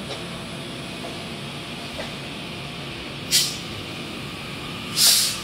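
TEMU2000 Puyuma tilting express train at the platform: a steady low running noise, with two short sharp hisses of air, a weaker one about three seconds in and a louder one near the end.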